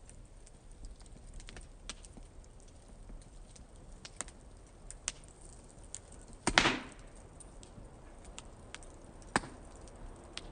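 Wood fire crackling in a fire pit: scattered small pops and snaps, with one loud pop about six and a half seconds in and another sharp snap near the end.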